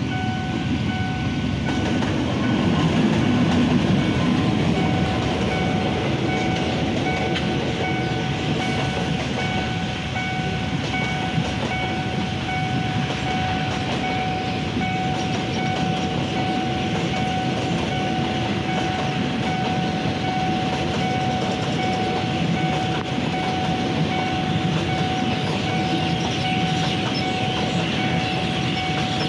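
A long passenger train running over a level crossing, wheels rumbling and clattering on the rails, loudest a few seconds in. The crossing's warning alarm sounds a steady tone throughout.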